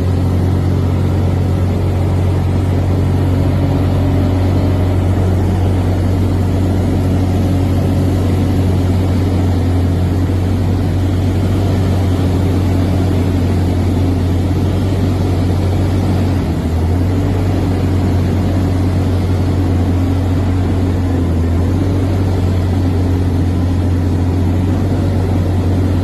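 Aircraft engine droning steadily and loudly while the plane flies inverted, with a brief dip in the drone about two-thirds of the way through.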